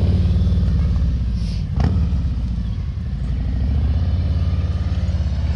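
Harley-Davidson V-twin engine running at low, walking-pace speed with a pulsing, lumpy beat, easing off slightly about two seconds in and then picking up again. A single sharp click is heard just before the dip.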